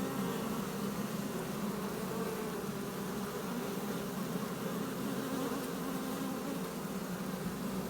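Many honeybees buzzing together in a steady low hum.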